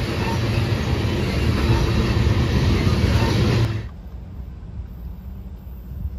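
Freight train's tank cars rolling past close by, a steady rumble of steel wheels on the rails. It cuts off abruptly about four seconds in, leaving a quieter low rumble of wind on the microphone.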